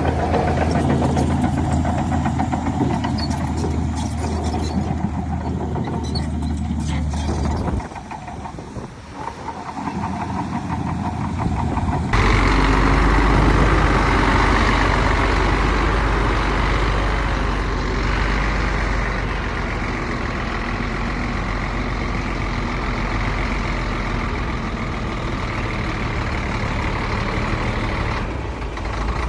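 Heavy diesel earthmoving machinery running: a dump truck and bulldozer engine note, steady at first, dropping away about 8 seconds in, then changing abruptly to a louder, fuller engine sound about 12 seconds in.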